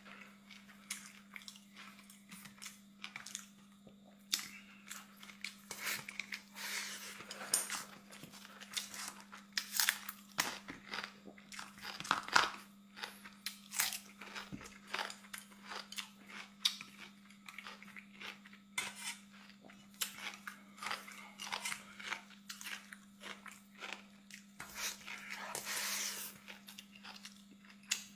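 Close-miked eating: crunchy bites and chewing in a rapid string of short crunches and clicks, over a faint steady hum.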